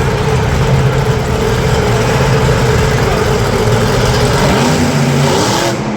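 Monster truck engine running loudly and steadily, its level dropping slightly near the end.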